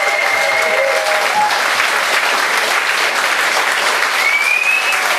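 Audience applauding steadily with dense clapping, a few voices cheering in the first second and a rising whistle near the end.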